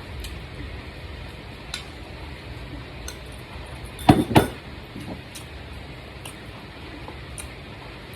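Cutlery clinking against dishes: two sharp clinks close together about four seconds in, with a few faint light taps around them over a steady low hum.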